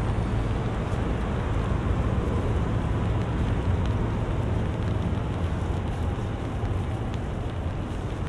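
Steady rain with the low, constant rumble of road traffic on a city street.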